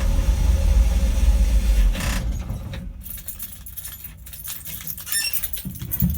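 Dodge 318 Poly V8 running at a high idle, then shut off about two seconds in and dying away. After it stops, light metallic jingling and clinking follows, with a short low thump near the end.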